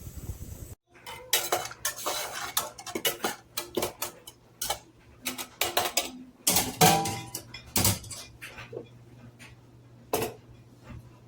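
Kitchenware clinking and clattering: a quick run of sharp knocks and clinks that starts about a second in, is densest in the middle and thins out near the end, over a faint steady low hum.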